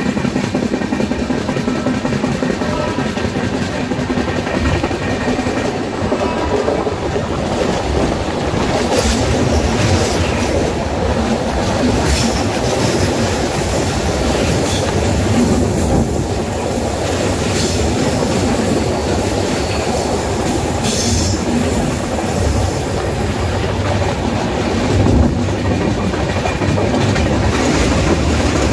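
Indian Railways passenger coaches running at speed, a steady rolling noise of wheels on rails heard from the coach door. Partway through, the train runs onto a steel truss bridge.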